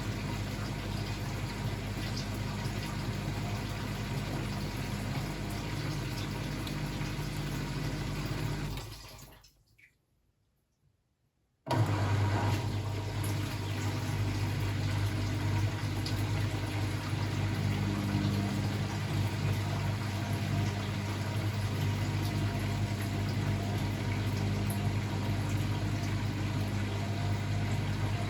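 Blomberg WAF 7442 SL washing machine running with a steady low hum. About nine seconds in the sound dies away to silence for two or three seconds, then starts again abruptly and runs on steadily.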